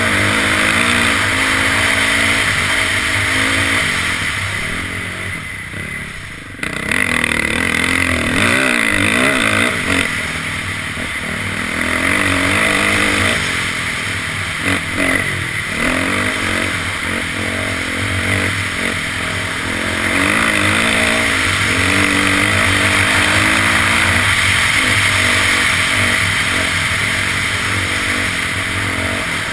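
Dirt bike engine running under way, its revs rising and falling as it is ridden over a trail, with some clatter. The engine eases off for a couple of seconds about four seconds in, then comes back sharply about seven seconds in.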